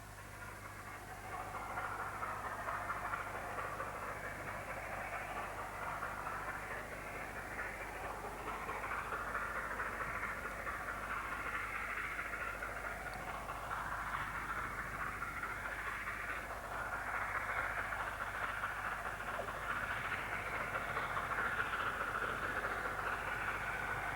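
An LNER A4 Pacific steam locomotive working a train, a steady rushing noise that builds over the first couple of seconds and then holds. A low steady hum runs underneath.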